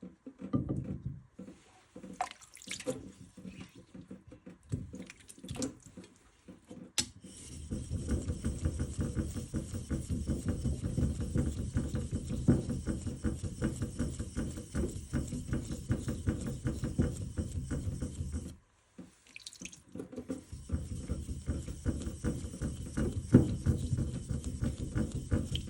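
A blade rubbed back and forth in quick strokes on a wet Arashiyama natural sharpening stone, a steady gritty rasp that starts about seven seconds in and pauses briefly around nineteen seconds. Before the strokes begin there are scattered wet splashes and drips.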